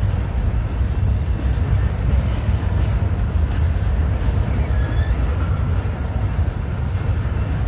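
Double-stack intermodal freight cars rolling past close by: a steady low rumble of steel wheels on the rails, with faint thin wheel squeals now and then.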